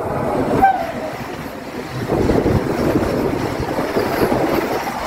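Rumble and rattle of a passenger train running at speed, heard from aboard, with a second train passing close alongside on the parallel track, louder from about two seconds in. A brief high squeal comes less than a second in.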